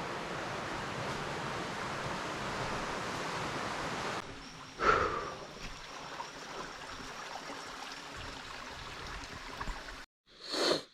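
Steady rush of running water, like a stream. After an edit a sharp, short sound breaks in about five seconds in, and a short loud burst comes just before the end.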